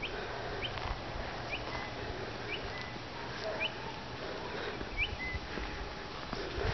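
A bird calling repeatedly: a short, high, rising chirp about six times, roughly once a second, over a steady low background hum.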